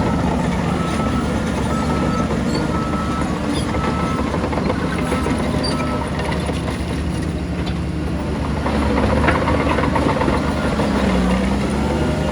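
Heavy diesel earthmoving machinery running steadily, a low engine drone, with a reversing alarm beeping about once a second for the first few seconds. Near the end the engine pitch shifts briefly as the machine works.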